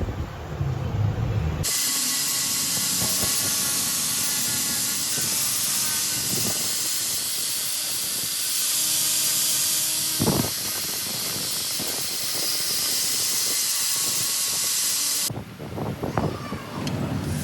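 A loud, steady hiss like air or spray under pressure starts suddenly about two seconds in and cuts off suddenly near the end, with a few knocks under it.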